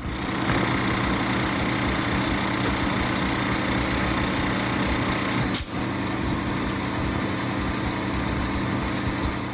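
Peterbilt semi-truck's diesel engine running steadily, with a wide hiss of road and air noise over it. There is a short click and a brief dip in level about five and a half seconds in.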